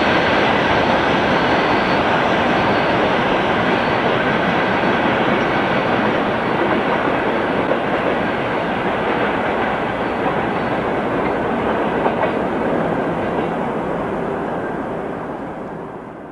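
Freight train rolling past, its wagon wheels running over the rails in a steady noise that fades away near the end.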